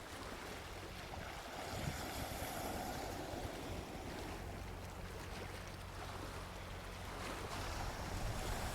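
Gentle sea waves washing onto a beach, a steady wash of surf with a low rumble underneath, swelling slightly about two seconds in and again near the end.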